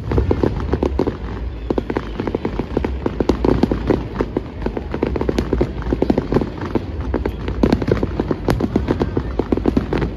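Fireworks display going off overhead: a rapid, dense crackle of overlapping pops and bangs from bursting shells, with one sharper crack about eight seconds in.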